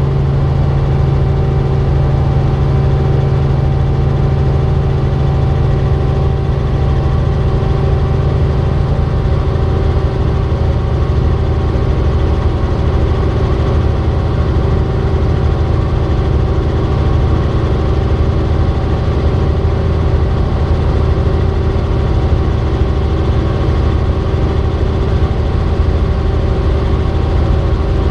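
Robinson R44 Raven II helicopter's six-cylinder Lycoming engine and rotors running steadily in flight, a loud continuous drone with steady tones. The low hum shifts slightly lower about ten seconds in.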